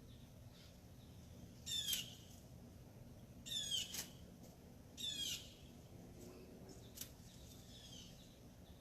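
A songbird singing: four short phrases of quick falling notes, repeated about every one and a half to two seconds, with a single sharp click about seven seconds in.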